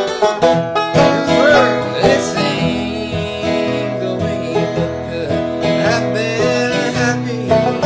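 Banjo and guitar picking a country-bluegrass tune, with a steady stream of plucked notes.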